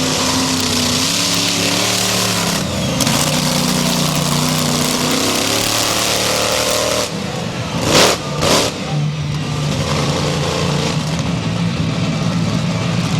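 Monster truck engine running and revving loudly over a broad roar. About eight seconds in come two short loud bursts half a second apart.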